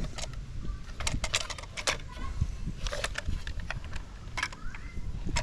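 Irregular light clicks and clatter of a plastic Lionel toy train locomotive being handled, with a brief rising squeak about four and a half seconds in.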